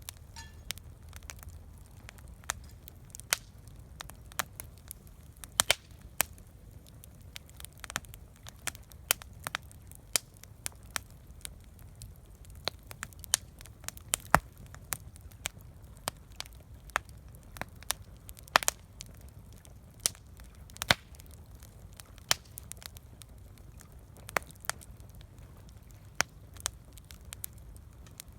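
Campfire crackling, with irregular sharp pops and snaps every half second or so over a low, steady rumble.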